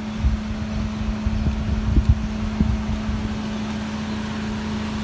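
A car engine idling with a steady hum, with gusts of wind buffeting the microphone during the first few seconds.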